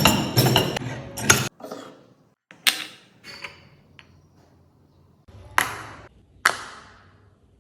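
Sharp metallic clacks and clinks of small metal magnet parts and a magnet-making press being handled. A quick run of them comes in the first second and a half, then single clacks follow about a second apart, each ringing briefly.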